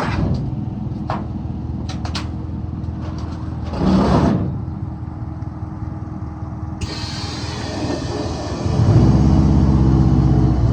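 Car engine running with road noise, with a louder rise of engine revving about nine seconds in.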